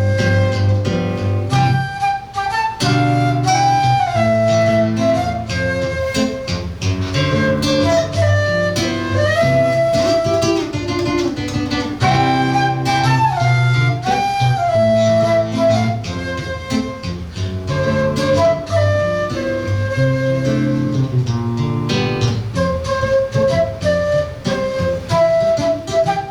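Flute and seven-string acoustic guitar duo playing live: the flute carries a melody of held notes over the guitar's quickly plucked chords and bass line.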